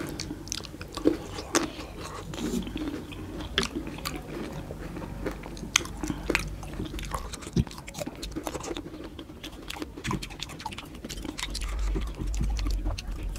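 Close-miked chewing and biting of fresh fruit (grapes, pomegranate seeds and apple), with irregular short, sharp clicks.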